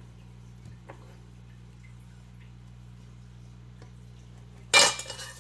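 Light clicks and taps of kitchen things being handled over a steady low hum, then a sudden loud clatter near the end lasting about half a second.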